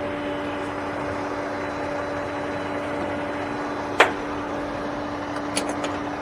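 Steady mechanical hum holding one constant tone, with a single sharp click about four seconds in and a few light clicks near the end.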